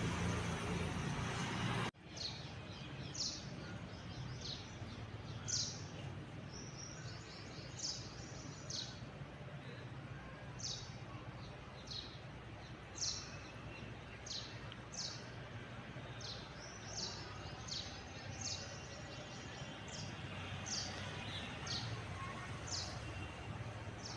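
Small birds chirping: many short, high chirps, about one or two a second, some in quick runs, over a faint low rumble. A louder noise fills the first two seconds and cuts off abruptly.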